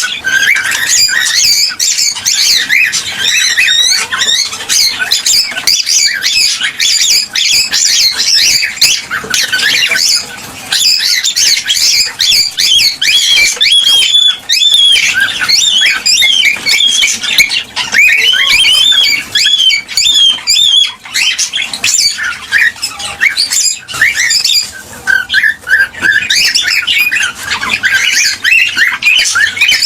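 Cockatiels calling continuously: many short, overlapping chirps and whistles that sweep up and down in pitch, with harsher squawks mixed in.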